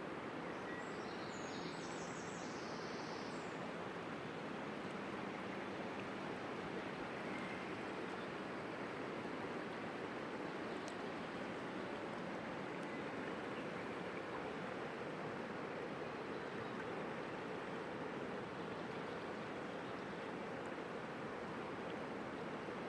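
Steady rushing of a stream's running water, with a few short high chirps in the first few seconds.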